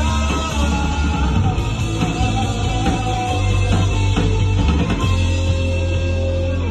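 Rock band playing a song live, with a heavy, steady bass.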